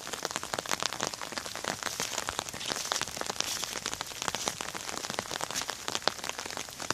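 Steady rain falling, with a dense stream of sharp ticks from drops striking a surface close by.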